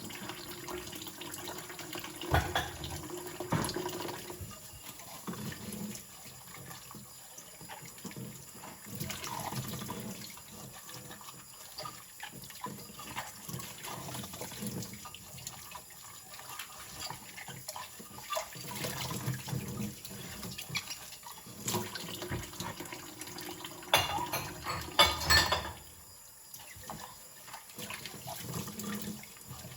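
Tap water running into a kitchen sink while dishes are rinsed, with a few sharp knocks, loudest about two seconds in and a cluster near the end.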